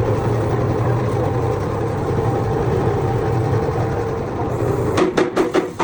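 A machine running steadily with a low hum, cutting out about five seconds in, followed by a few sharp knocks.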